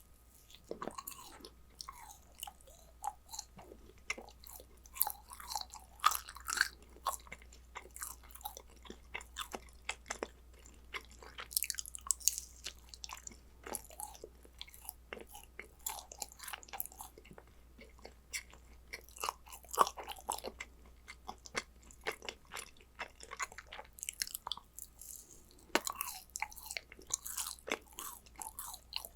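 Close-miked chewing and biting of yakgwa, Korean fried honey cookies: a dense, irregular run of short, sharp mouth sounds, with no pauses.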